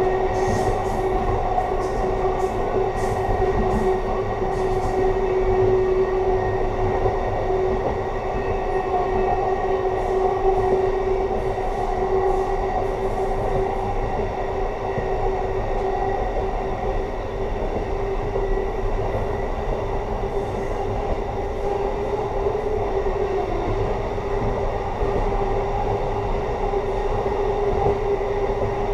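Amtrak passenger car rolling along the track, heard from inside at the rear window: a steady rumble of wheels on rail with a constant hum. There are faint light clicks in the first few seconds and again about ten seconds in.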